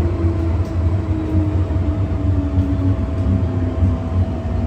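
MTR M-Train running on the Tsuen Wan Line: a steady low rumble of wheels on rail with a steady tone and a traction-motor whine that falls slowly in pitch, as the train slows.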